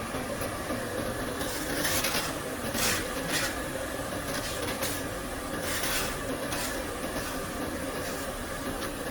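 Abrasive belt converting machinery running: a steady machine hum with short hissing bursts every second or so.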